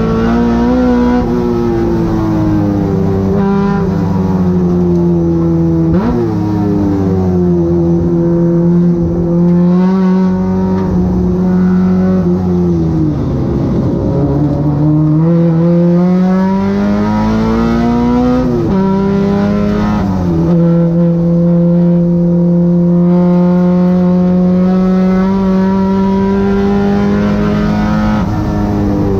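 Honda K24 four-cylinder engine of a Civic race car at high revs, its pitch climbing under full throttle and falling sharply at upshifts. About midway the revs fall away under braking and climb again out of the corner, then hold a long steady pitch before another drop near the end.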